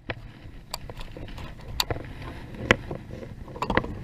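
A handful of short, sharp clicks and knocks, roughly one a second, over a low steady rumble.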